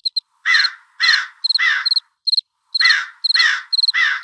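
A bird calling harshly, three calls in a row, then another three, over short, repeated high-pitched chirping.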